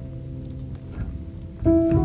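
Calm solo piano music: a held chord fading away, then a new chord struck about one and a half seconds in, over the faint scattered crackle of a wood fire.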